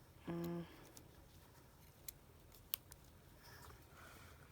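A few faint, sharp clicks of small tools and parts being handled during phone repair work. A short hummed "mm" of a voice comes near the start.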